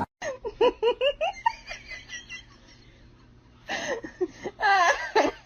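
High-pitched giggling laughter in quick repeated bursts, fading out after about two seconds and starting up again more loudly near the end.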